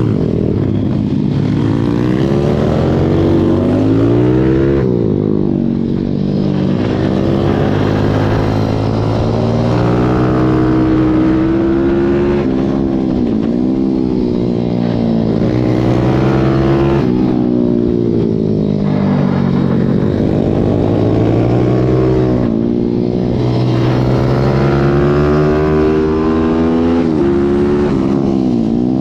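Pit bike's single-cylinder four-stroke engine under race load, recorded onboard: the pitch climbs hard, falls back, and climbs again every few seconds, with short drops where the throttle closes.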